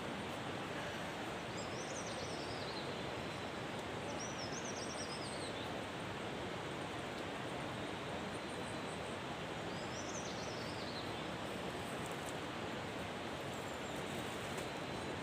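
A songbird sings three short phrases, each falling in pitch, over a steady rushing noise.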